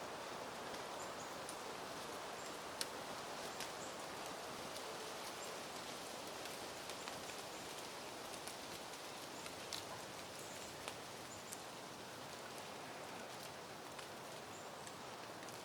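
Soft wind rustling through peony plants, a steady hiss of foliage. Scattered light clicks and faint high chirps sound over it now and then.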